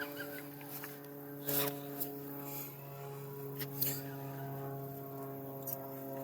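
A steady low hum with several even overtones, with a few light clicks and knocks now and then.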